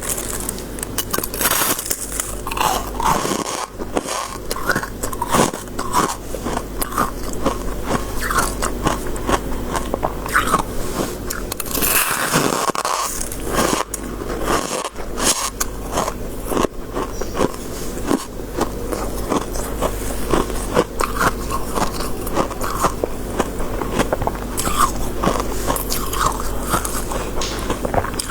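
Close-miked biting and chewing of crisp freezer frost, like shaved ice: dense, continuous crunching with a steady low hum underneath.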